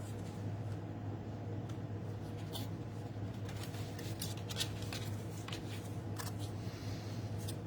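Scissors trimming the bottom off a paper tag: several short, separate snips and light paper handling, over a steady low hum.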